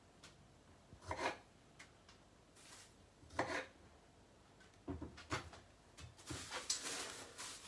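Knife cutting baby plum tomatoes on a chopping board: a few separate knocks of the blade striking the board, spaced a second or two apart. Near the end comes a longer rustling, scraping noise.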